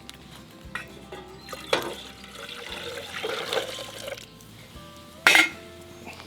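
Background music over kitchen sounds: a sharp clink of cookware, then about two seconds of liquid splashing or being poured, and a second, louder clink near the end.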